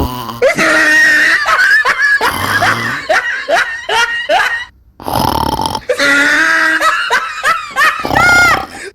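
Silly wheezy, laugh-like vocal noises with quick rising squeaks, in two runs broken by a short pause about five seconds in.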